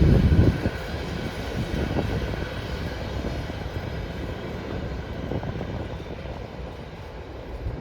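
Freight train rolling past with a low rumble that is loudest at the start and fades steadily as the train moves away.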